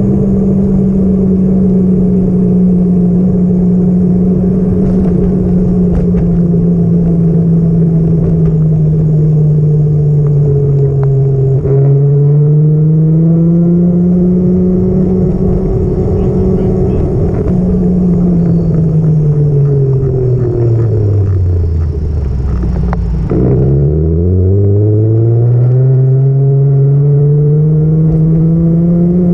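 Motor vehicle engine running while being driven, with the revs changing in pitch. The revs hold steady, drop briefly about twelve seconds in and climb again, then fall away slowly to a low rumble. Near the end they pick up suddenly and rise again.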